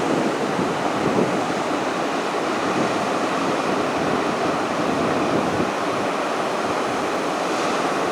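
Heavy ocean surf from 8 to 10 foot hurricane swell breaking on the beach, a steady rushing wash, with wind blowing on the microphone.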